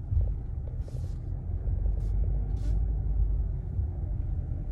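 Steady low rumble of a car's engine and road noise heard from inside the cabin as it moves slowly, with a couple of brief hissy rustles.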